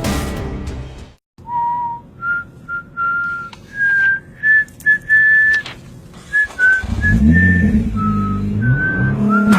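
Someone whistling a short tune, one clear note after another at different pitches, after music fades out. About two-thirds of the way through, a low tone that rises and falls repeatedly comes in under the whistling.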